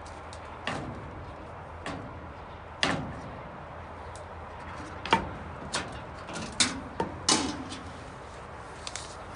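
A string of irregular sharp knocks and taps, about nine, the loudest clustered in the second half, each with a short ringing tail.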